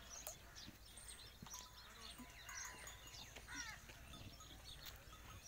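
Near silence with faint bird chirps, a few short calls about halfway through.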